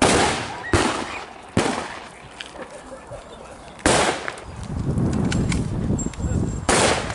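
Five sharp gunshots from firearms firing blanks, irregularly spaced, each trailing off in an echo. A low rumble runs between the fourth and fifth shots.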